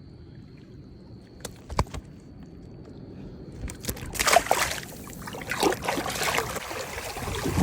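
Water splashing and sloshing in uneven bursts, starting about four seconds in after a quieter stretch with a few sharp clicks.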